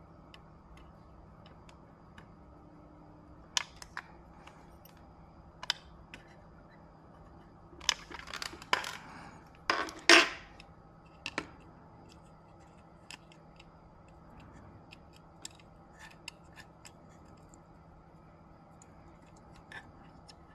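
Scattered small clicks and taps of hand tools and parts being handled on a workbench. About eight to ten seconds in comes a short run of louder scraping and snipping noises, the loudest a sharp snap.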